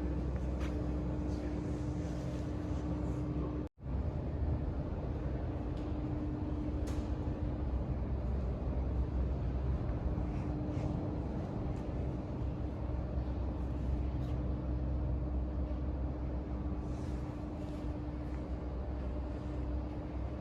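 Steady low hum of indoor room ambience, with a faint steady tone over it. It drops out for an instant about four seconds in.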